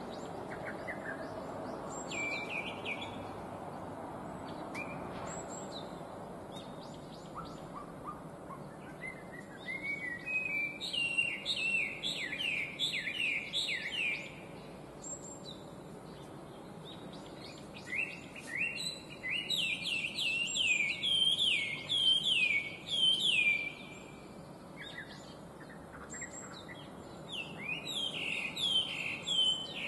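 Chinese hwamei singing: loud phrases of rapidly repeated, down-slurred whistles in three bursts, the first about ten seconds in and the last near the end, over steady low background noise.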